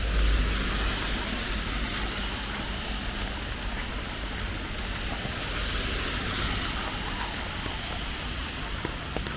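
Steady rain falling, with scattered sharp drop ticks. A low rumble swells in the first second, then settles into a faint background.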